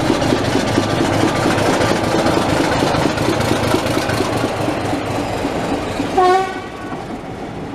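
Train running on the line with a loud, steady rumbling noise. About six seconds in there is a brief pitched hoot, and then the noise eases off.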